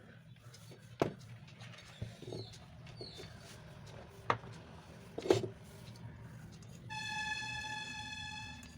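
A few sharp clicks and knocks, then a steady horn-like tone held for nearly two seconds near the end, over a low steady hum.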